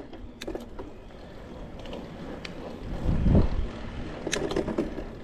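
Wind rumbling on the microphone while riding, with scattered light clicks and rattles. A gust swells louder about three seconds in.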